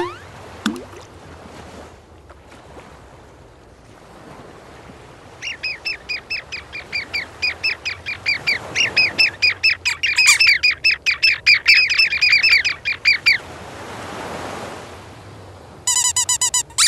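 Birds squawking in a fast, chattering run of short, high calls, several a second, from about five seconds in until about thirteen seconds. A soft whooshing swell follows, and a quick run of short pitched tones comes near the end.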